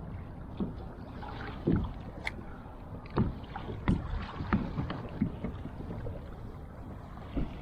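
Sea water slapping and lapping against a fishing kayak's hull over a steady low rumble, with several short knocks and splashes.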